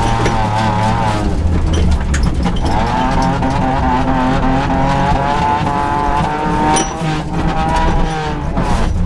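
Rally car engine heard from inside the cabin, revving hard and dropping pitch at each gear change, with clicks and knocks from the loose dirt stage surface.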